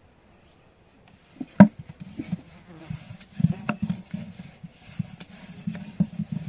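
Quiet, then a sharp knock about a second and a half in, followed by a run of irregular, rapid knocks and taps.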